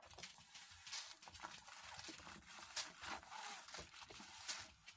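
Faint handling noise from a diamond painting kit's packaging: light rustling with a few sharp clicks and taps.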